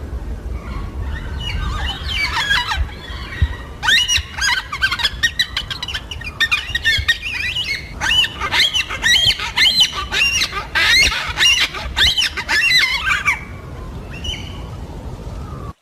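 Yellow-tailed black cockatoos calling: a rapid run of short, wavering squawks that starts about two seconds in and stops a couple of seconds before the end, over a low rumbling background.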